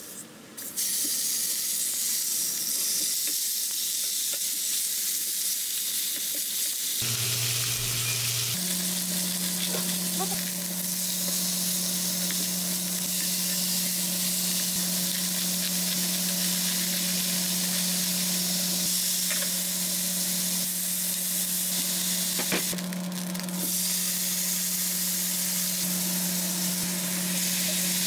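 Sliced pork belly sizzling as it fries in a frying pan, later kimchi frying in the rendered pork fat. A steady low hum runs under the sizzle from about eight seconds in.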